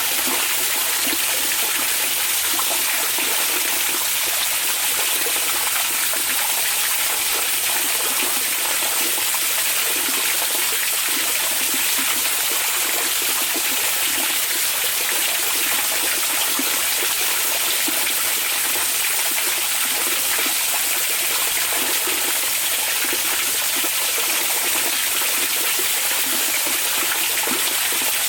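Onsen hot-spring water running steadily, an even rush of water that does not change or pause.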